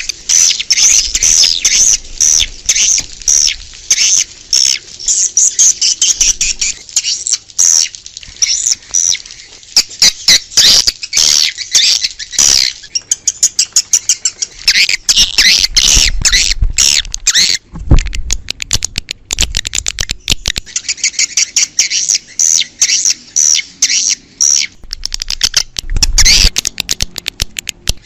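A flock of swiftlets calling: many rapid, high chirps and twitters overlapping, with short breaks. This is the outdoor lure call played to draw swiftlets to a nesting house.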